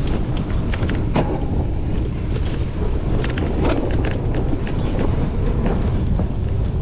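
Wind buffeting the microphone of a cyclocross racer's onboard camera, with a stream of short clicks and rattles from the bike jolting over rough ground.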